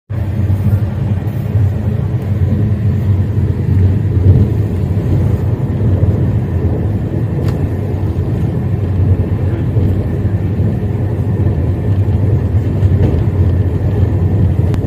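Passenger train running at speed: a steady low rumble of the wheels on the track.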